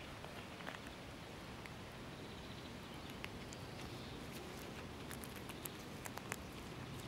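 Guinea pigs grazing in grass: small crisp clicks of blades being bitten and chewed, scattered at first and coming more often about five seconds in.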